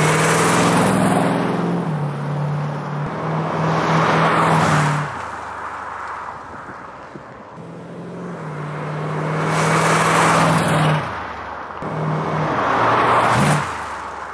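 A 1932 Ford roadster hot rod with a 350 V8 drives past twice, the engine note growing louder as it comes near and fading as it moves away.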